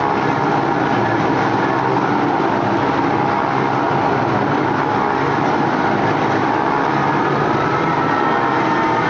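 Several motorcycle engines running together in a steady, unbroken drone, from the riders of a globe-of-death act.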